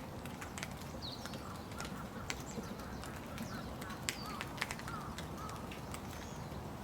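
Rain falling steadily, with irregular sharp drips tapping on nearby surfaces. A bird chirps a few times.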